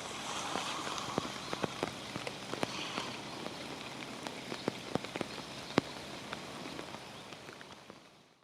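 Rain falling steadily, with many irregular drops ticking sharply close by. It fades out near the end.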